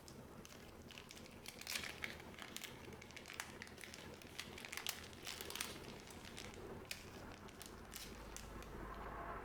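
Trading card booster pack wrappers and cards being handled: irregular crinkles and small clicks. A low rumble comes in near the end.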